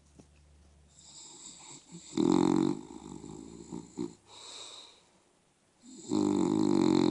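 Bulldog snoring in her sleep: a short loud snore about two seconds in, softer breathing noises after it, then a long loud snore starting near the end.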